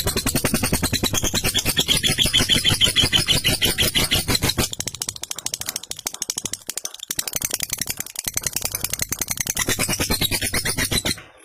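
Lovebird giving its long, rapid chattering trill (the 'ngekek' call), a fast unbroken run of harsh repeated notes. It grows softer for a few seconds in the middle and stops abruptly just before the end.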